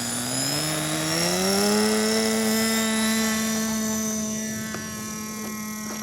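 450-size radio-controlled helicopter's rotor and motor whining. The pitch rises over about the first two seconds as the rotor speeds up, then holds steady.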